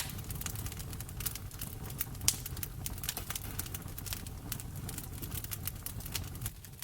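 Wood fire in a fireplace crackling: frequent irregular pops and snaps over a low steady rumble, with one louder pop a little after two seconds in.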